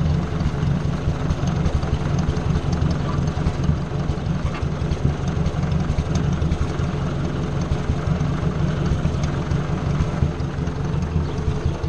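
Ford 600 tractor engine running steadily.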